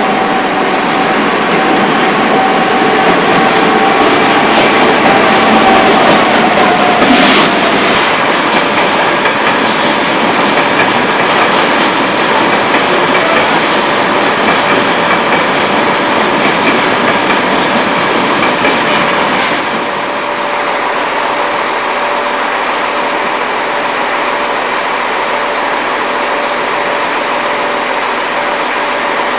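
Engineering train's wagons rolling past with wheels squealing and clattering over the rail joints, and a few sharper clanks. The sound eases a little about two-thirds of the way through.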